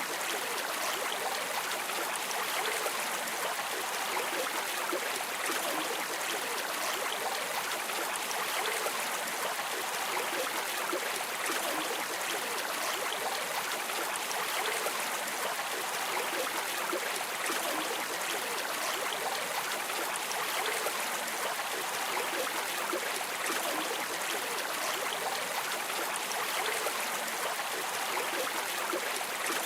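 A river or stream flowing steadily, a continuous rush and babble of water with no pauses or distinct splashes.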